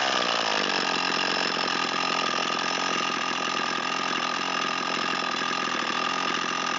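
Echo SRM225 string trimmer's small two-stroke engine just after starting: its revs fall away in the first second and it settles into a steady idle. The engine is running lean, which the owner suspects is from low compression.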